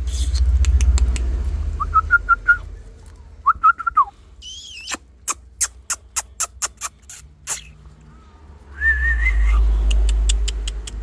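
Several short warbling whistles, each a second or less, with a long one near the end. In the middle comes a quick run of sharp clicks, and a low rumble sits under the start and the end.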